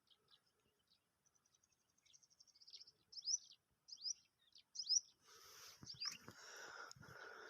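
Small birds chirping: a run of quick high chirps, then several short down-sweeping calls. A louder, noisy sound comes in about five seconds in.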